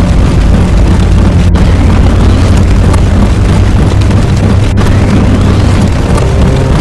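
Very loud, dense wall of layered explosion-like sound effects with a steady low rumble and faint rising sweeps, broken by two sudden split-second cutoffs, about a second and a half in and near five seconds, where one segment gives way to the next.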